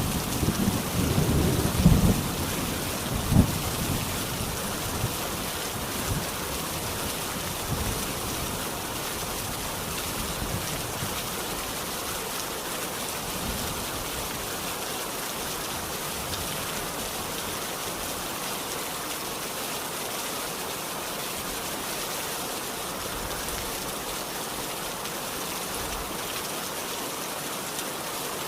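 Steady rain falling, an even hiss throughout. A rumble of thunder with a few louder low peaks in the first few seconds dies away by about ten seconds in.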